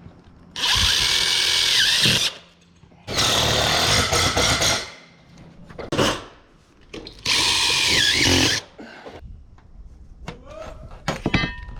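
Power drill-driver run in three bursts of one to two seconds each, driving screws into framing lumber; its pitch drops near the end of the first and last bursts as the motor loads up.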